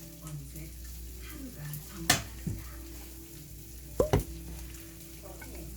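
Food sizzling in a frying pan while it is stirred, with sharp clinks of a utensil against the pan. The loudest clinks come about two seconds and four seconds in.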